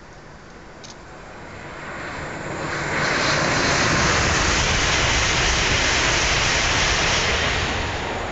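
CRH2C high-speed electric train passing at speed: a loud rushing noise that builds over about two seconds, holds steady for about four, then begins to fade near the end.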